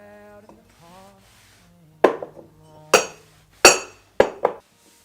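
Dishes or glassware clinking together: about five sharp clinks in the second half, two of them ringing briefly, over soft background music.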